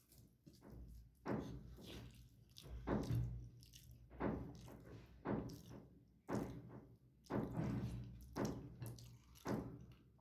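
Close-up chewing and mouth sounds of a person eating rice with chicken and egg bhuna, one chew about every second.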